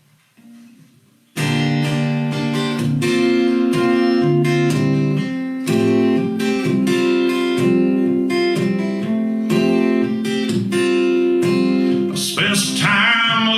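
Acoustic guitar strummed, starting suddenly about a second and a half in after a short quiet pause, as the intro to a country song.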